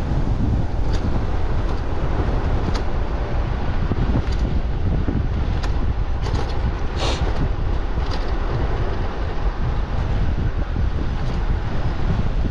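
Wind buffeting the microphone of a riding e-bike in a steady low rumble, with scattered faint clicks and a brief hiss about seven seconds in.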